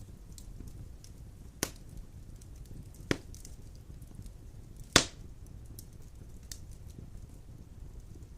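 Wood fire burning in a stone fireplace: a low steady rumble of the flames with sharp crackles and pops of burning logs, three clear pops, the loudest about five seconds in.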